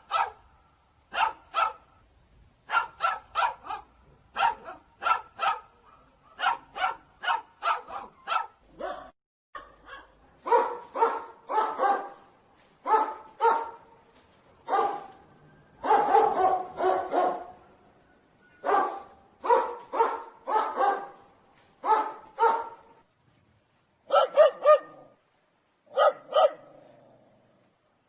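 Dog barking loudly in quick runs of two to four barks, with short pauses between the runs.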